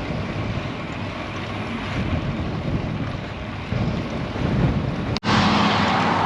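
Wind rushing and buffeting on the microphone of a bike-mounted camera, riding into a strong headwind. About five seconds in the sound drops out for a moment, and after that the wind noise is louder and brighter.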